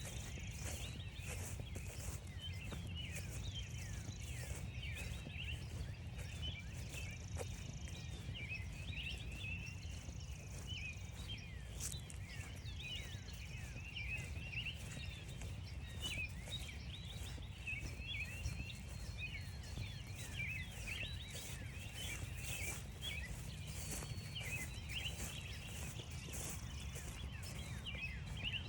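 Many birds chirping and calling at once, a dense, busy chorus of short high notes with a few higher repeated notes over it, while footsteps crunch on frost-stiffened grass. Under it is a steady low rumble.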